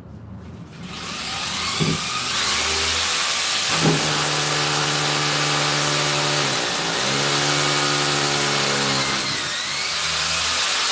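Electric power drill running under load, drilling or driving a screw into the wall at a marked spot. Its motor holds a steady note, dips briefly about two-thirds of the way through, then picks up again.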